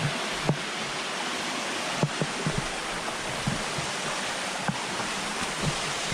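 Steady rush of a waterfall's falling water, with a few short low thumps scattered through it.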